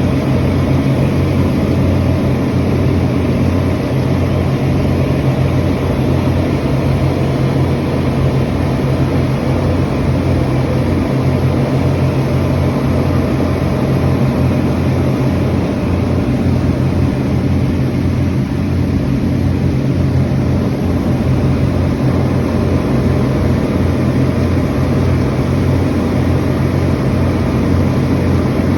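Speedboat engine running steadily: a loud, even, low drone that holds without letting up.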